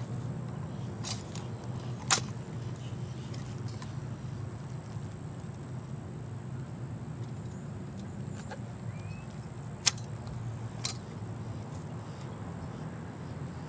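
Insects trilling in a steady, high, even tone, over a low steady rumble. A few sharp clicks or knocks cut in, the loudest about two seconds in and another past the middle.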